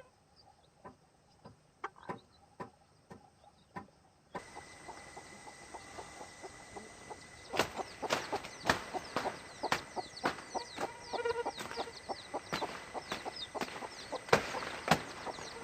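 Chickens clucking, with many sharp clicks and short high chirps. The sound changes abruptly about four seconds in, from a few faint clicks to a louder, busier mix.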